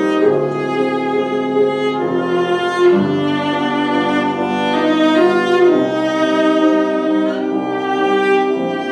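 Cello playing a slow, sustained melody in long bowed notes, with piano accompaniment.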